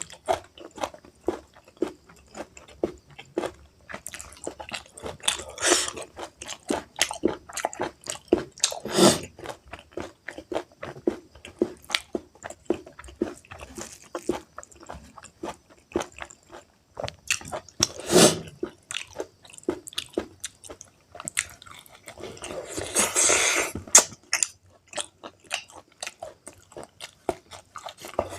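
Close-miked eating of pork curry and rice: steady chewing and biting with wet, smacking mouth sounds, broken by a few longer, louder bursts.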